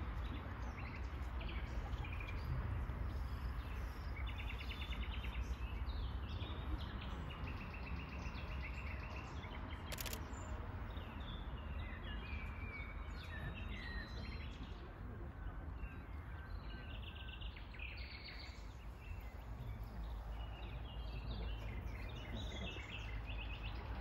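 Small birds singing and chirping in short repeated phrases over a steady low rumble of outdoor background noise, with a single sharp click about ten seconds in.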